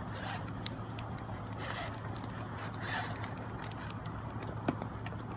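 A vehicle engine idling steadily in the background, with scattered light clicks and rustles.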